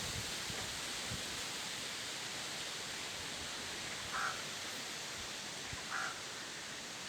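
Strong wind blowing steadily. A crow caws twice, briefly, about four and six seconds in.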